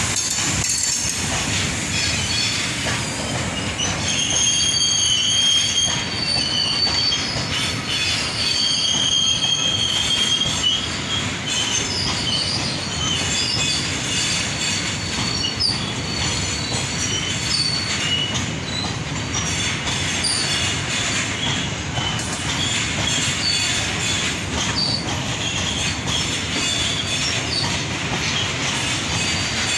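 Freight train of petrol tank wagons rolling past, a steady rumble of steel wheels on the rails. High-pitched wheel squeal comes and goes over it, strongest in the first half.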